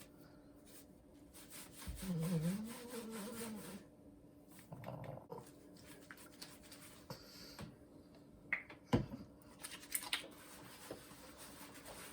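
An old pug whining once for about two seconds, a wavering, rising and falling cry, followed later by a few light knocks.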